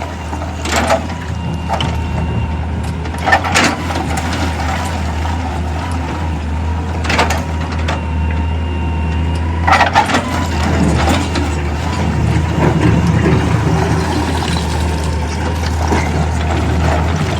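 Heavy machinery working rock: an engine's steady low drone, with sharp cracks and knocks of stone every few seconds and a faint steady whine over it.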